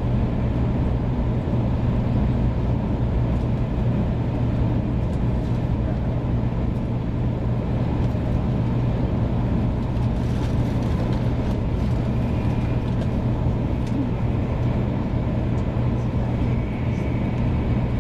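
Steady running noise of a 500 Series Shinkansen heard inside the passenger car: an even rumble with a strong low hum and no distinct events.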